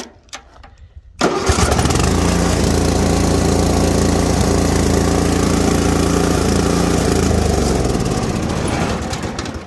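Riding lawn mower engine starting abruptly about a second in, running steadily and loudly, then dying away near the end as it shuts off.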